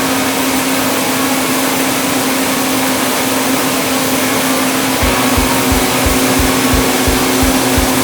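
Homemade band-saw sawmill running, powered by a Ford industrial engine: a steady hum over a loud hiss. About five seconds in, a regular low thumping starts, about three beats a second.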